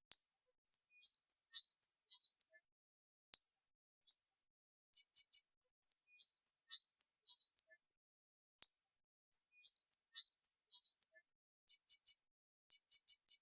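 Kemade bird calling: loud, clear, high-pitched chirps, each sliding quickly up or down, mixed with quick runs of short sharp notes, in bursts with brief pauses.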